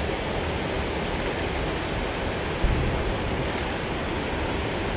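Steady rush of flowing creek water, with a brief low thump a little over two and a half seconds in.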